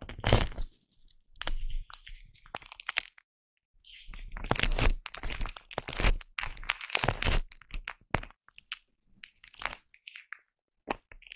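Foam brushed and rubbed right against a microphone, giving dense scratchy crackling in several bursts with short pauses between, the longest lasting about four seconds in the middle.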